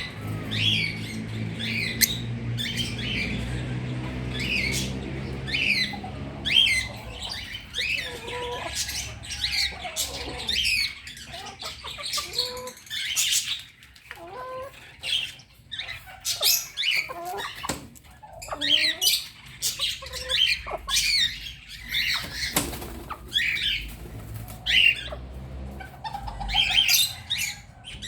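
A flock of birds squawking and chirping all together, a dense run of short high calls one after another, super noisy. A low steady hum sits under them for the first several seconds and again near the end.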